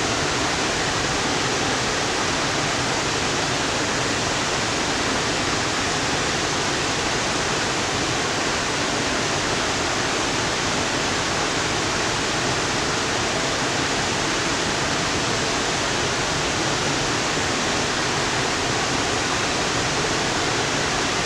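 Waterfall: a loud, steady, unchanging rush of falling water.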